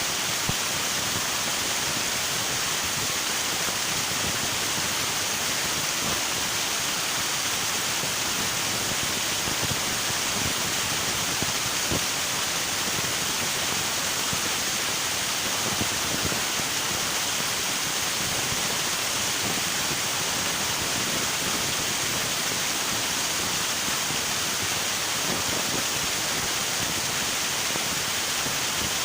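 River water rushing and splashing in a steady, even hiss without pause.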